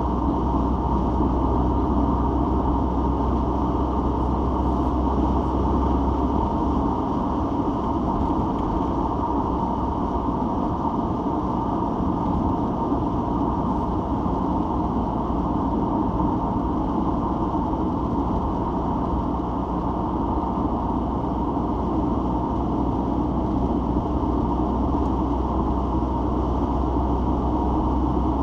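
Citroen XM on the move, heard from inside the cabin: steady engine and road noise. The low drone eases about six seconds in and returns near the end.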